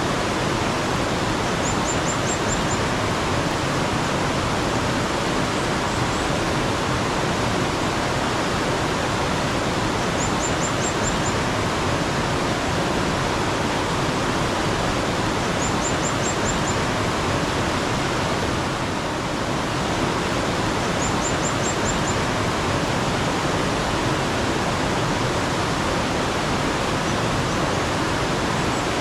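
Steady rush of flowing mountain water, a stream or small waterfall. Over it a small bird gives a quick, very high run of five or six notes, four times at intervals of five or six seconds.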